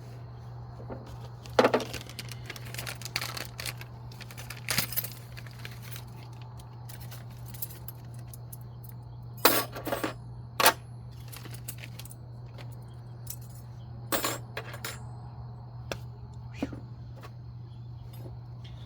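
Metal hand tools clinking and clanking in a handful of separate sharp knocks during front brake and hub work, over a steady low hum.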